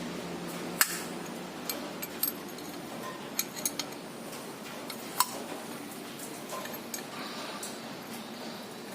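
Metal tools and engine parts being handled on a workbench: scattered sharp metallic clicks and clinks, a handful of separate knocks over a steady hiss.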